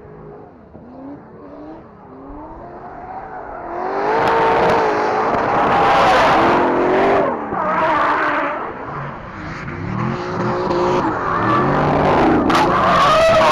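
Drift car engine revving up and down on and off the throttle while its tyres screech in a slide; faint at first, it turns loud about four seconds in. A sharp crack comes near the end.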